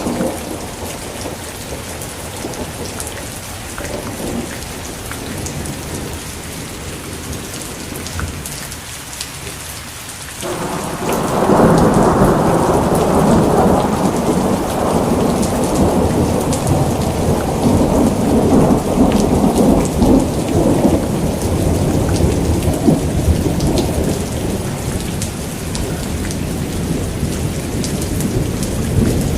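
Steady rain falling. About ten seconds in, a loud, long rumble of thunder breaks in and rolls on to the end, rising and falling.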